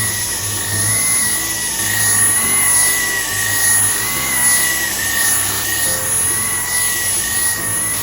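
Vacuum cleaner running steadily, its motor whine wavering slightly and its airflow noise swelling and easing every second or two, with soft background music underneath.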